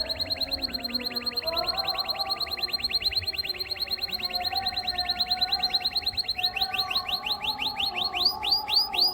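Canary singing one long rapid trill of identical high chirps, about ten a second. About six seconds in it slows into longer rising, sweeping whistled notes. A quieter, lower wavering warble runs beneath.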